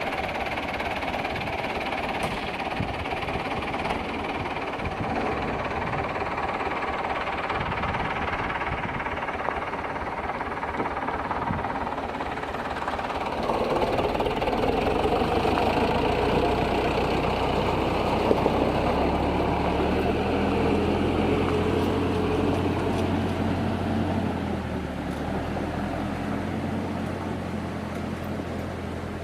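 Steady mechanical rumble with a hiss over it, like a running engine. About halfway through it grows louder and takes on a steady low hum, which eases off toward the end.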